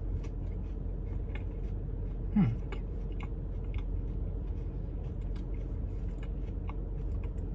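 A person chewing a bite of crispy deep-fried fruit pie with the mouth closed: soft, scattered wet clicks. A steady low hum runs underneath, and about two and a half seconds in there is one short low vocal hum that falls in pitch.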